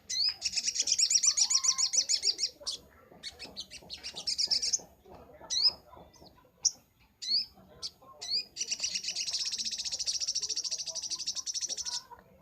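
Little spiderhunter (sogok ontong) singing: two long runs of rapid, high, chattering notes, one at the start and another from about eight seconds in, with single short upward-sliding calls between them.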